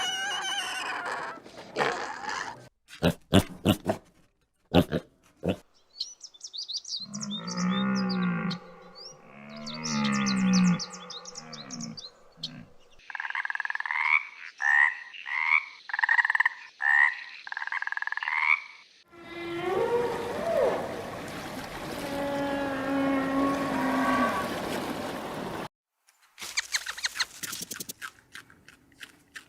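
A string of separate animal calls, one clip after another with short breaks between. First come scattered clicks, then two long, low, arching calls. Next is a run of about six evenly spaced calls, then a noisier stretch with gliding tones.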